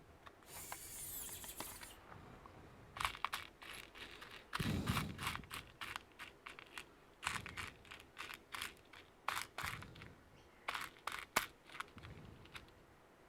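Hands handling laptop parts: a run of irregular sharp plastic clicks and taps, with a brief rustle near the start and a duller knock of handling about a third of the way in.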